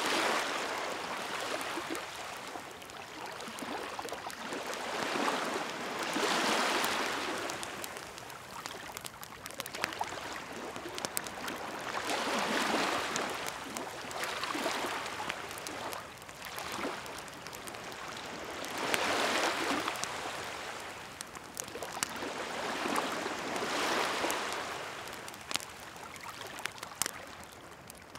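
Sea waves washing ashore, swelling and falling back about every six seconds, with a wood bonfire crackling and popping throughout.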